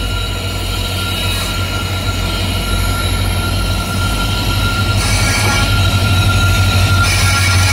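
An approaching diesel-hauled express train: a steady low rumble with a thin, steady high whine over it, growing gradually louder toward the end.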